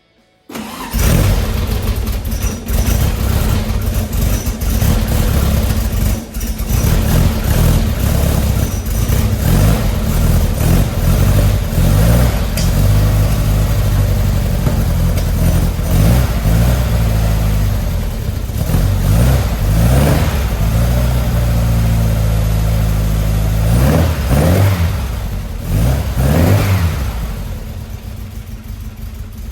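Freshly built 1904cc stroker air-cooled VW flat-four engine starting up, catching suddenly about a second in. It is then revved again and again, the revs rising and falling several times, before settling lower toward idle near the end.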